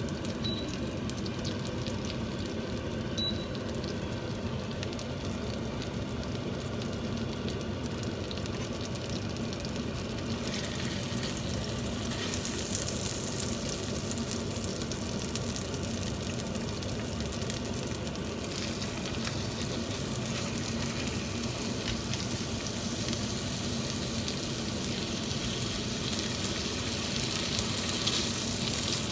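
Chicken sizzling in a hot pan, a steady frying hiss that turns brighter and sharper about ten seconds in.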